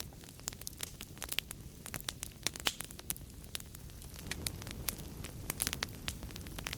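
Wood fire in a fireplace crackling, with frequent sharp pops over a steady low rumble of flames.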